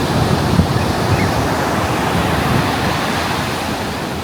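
Ocean surf washing onto a beach in a steady roar, with wind buffeting the microphone underneath.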